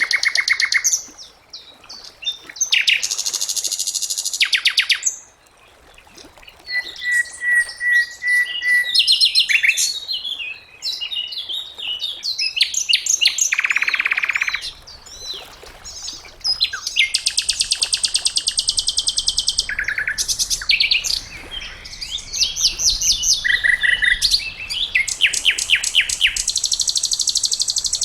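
Sikatan londo songbird singing: fast rattling trills of rapidly repeated high notes in phrases of one to three seconds, with a short run of level whistled notes in the middle and brief pauses between phrases.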